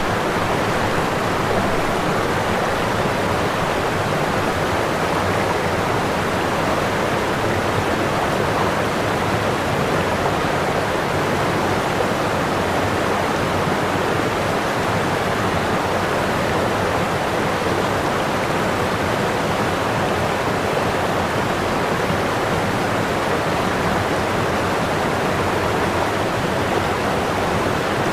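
Whitewater pouring over a waterfall: a steady, unbroken rush of falling water.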